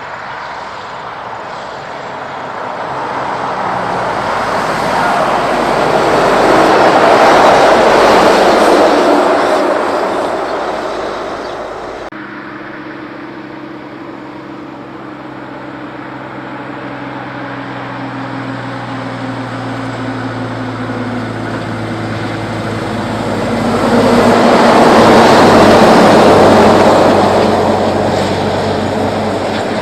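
Two Kenworth trucks passing by on the road, one after the other: each pass is a rush of tyre and engine noise that swells to a peak and fades away, the first about 7 seconds in and the second about 25 seconds in. A steady engine hum runs under the second truck's approach.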